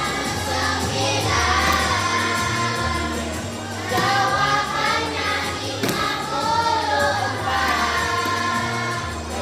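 A group of voices singing a Malay times-table song together over a backing track with a stepping bass line.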